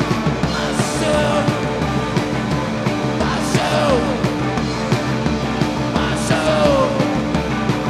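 Rock band playing live over a steady, driving beat. A sliding note falls in pitch about every three seconds.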